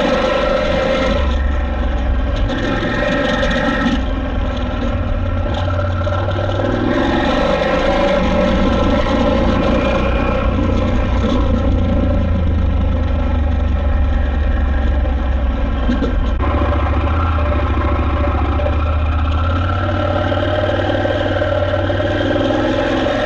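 KTM 890 Adventure R's parallel-twin engine running while the bike is ridden, its note shifting up and down with the throttle several times.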